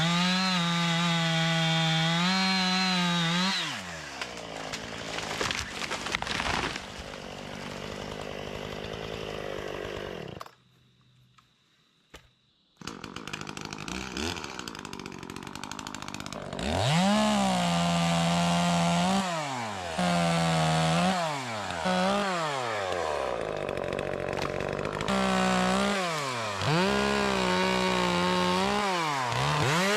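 Gas chainsaw at full throttle, then dropping to idle. It falls quiet for about two seconds near the middle, then runs again and is revved up and down repeatedly.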